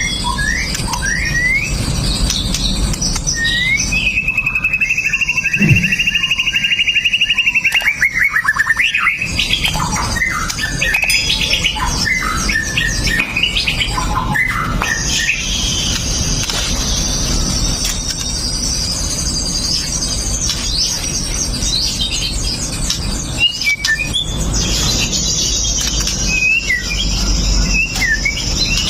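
White-rumped shama singing a long, varied song of quick slurred whistles, a sustained trilled whistle and long runs of sharp, high rattling notes.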